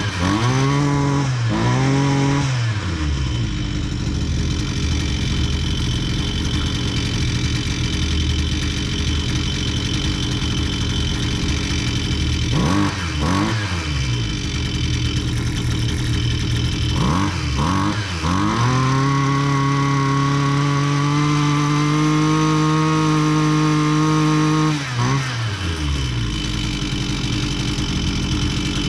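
Husqvarna 129L string trimmer's small two-stroke engine running after repair of a loose intake insulator block: it idles steadily, is blipped up and back down a few times, then is held at high speed for about six seconds before dropping back to idle.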